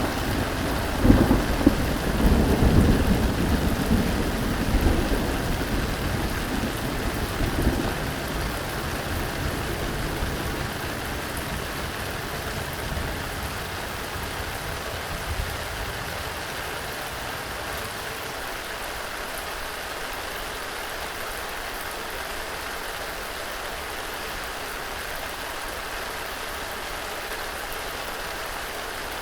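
Steady rain with a long rumble of thunder, loudest in the first few seconds and dying away by about halfway through, leaving only the even hiss of the rain.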